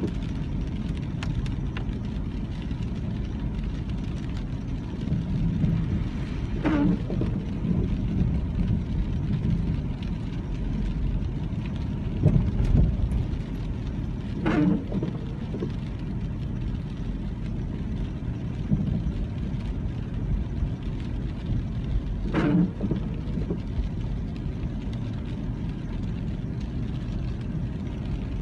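Car driving on a rainy country road: steady engine and road rumble, with a brief sound coming back about every eight seconds.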